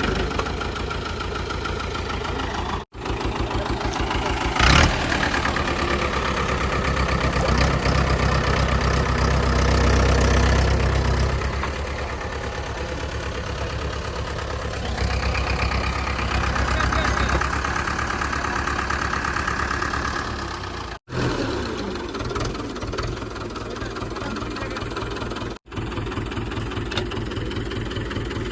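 Mahindra 575 tractor's diesel engine running steadily, louder and heavier for a few seconds about a third of the way in, with one sharp knock near the start. The sound cuts out abruptly three times for an instant.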